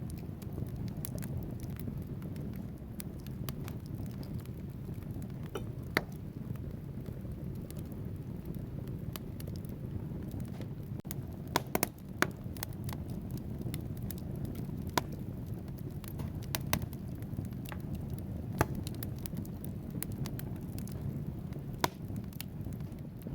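Wood fire burning in a fireplace: a steady low rumble of flames with irregular sharp crackles and pops from the logs, a few louder snaps now and then.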